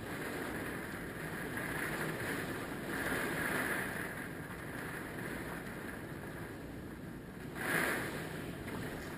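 Hurricane wind gusting, rising and falling every second or two and buffeting the microphone, with a sharper, louder gust near the end.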